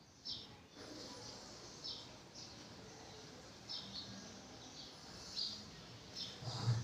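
Small birds chirping in the background: short, high chirps every second or two, over a faint room hiss. A brief low hum comes in near the end and is the loudest moment.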